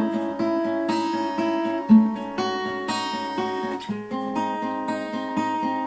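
Acoustic guitar playing on its own, a steady rhythmic picked and strummed chord accompaniment. The chord changes about every two seconds, each marked by a stronger bass note.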